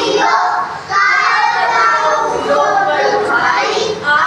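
A group of children's voices reciting together in unison, in a sing-song classroom chant.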